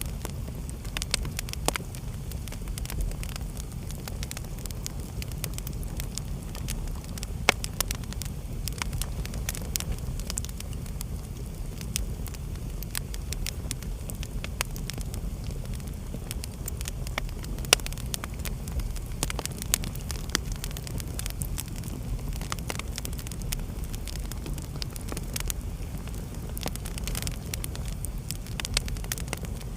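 Wood fire burning in a fireplace: a steady low rumble of flames with frequent sharp crackles and pops, the loudest pops about 7 and 18 seconds in.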